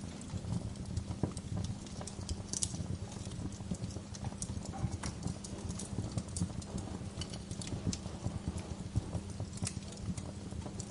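Bonfire crackling: wood snapping and popping irregularly over a steady low rumble of burning. Sharper pops stand out about two and a half seconds in and again near the end.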